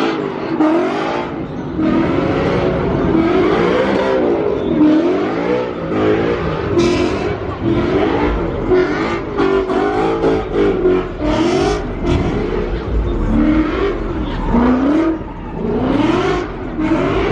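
Car engines revving up and falling back again and again, with some revs overlapping one another.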